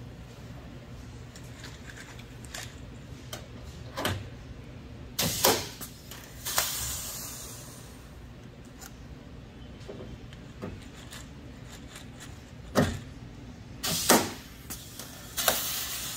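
Scattered knocks, clicks and short hissing bursts of hand and tool work on a car body, over a steady low hum. The loudest knocks come about five seconds in and near the end.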